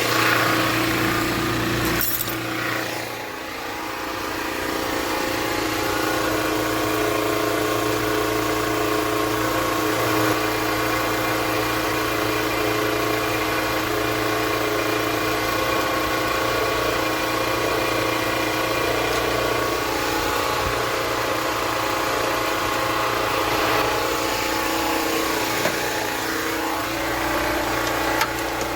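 Portable generator engine running steadily at a constant speed.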